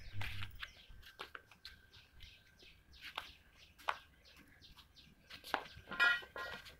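Small birds chirping in short, repeated calls over a thin steady high tone, with one longer, fuller call about six seconds in.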